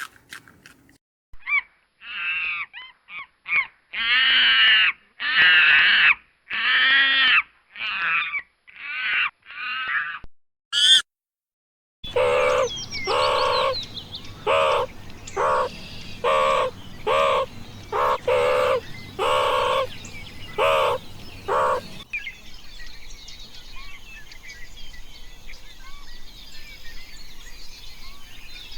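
Animal calls in three spliced sections: a run of loud, short, pitched calls with a final rising squeal about 11 seconds in; after a cut, a second run of about a dozen repeated, lower calls; and after another cut near the end, soft bird chirping over a light background hiss.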